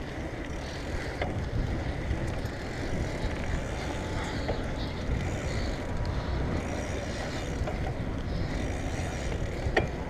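Wind buffeting a GoPro's microphone while riding a bicycle: a steady low rumbling rush, with a few faint clicks and a sharper click near the end.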